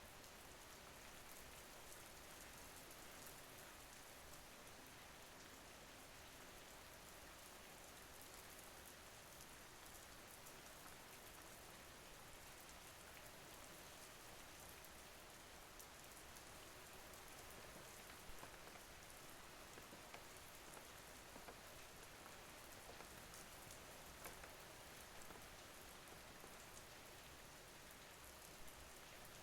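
Faint, steady rain: an even hiss of falling rain with fine patter of drops on a surface.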